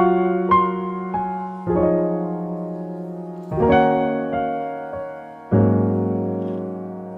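Background music: slow piano chords, each struck and left to ring and fade.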